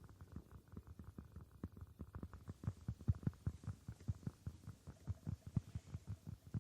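Rapid ASMR tapping, many dull, low taps a second in an uneven run, growing louder about halfway through.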